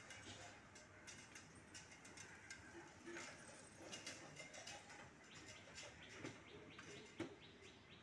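Faint chirping of small birds in the background, with many short high chirps throughout. A single sharp tap comes near the end.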